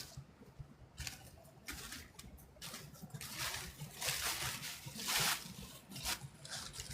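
Footsteps crunching through dry fallen leaves: an irregular run of rustling crunches, loudest around the middle.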